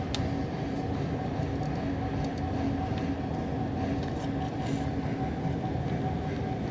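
Steady low mechanical rumble with a constant hum and a few faint clicks about the start; no distinct bangs or thuds stand out.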